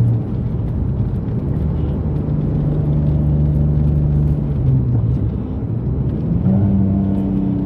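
Mitsubishi 3000GT's SOHC V6 engine and exhaust, running with both catalytic converters gutted, heard from the car while driving. The engine note changes pitch a couple of times and steps up to a higher, louder note about six and a half seconds in.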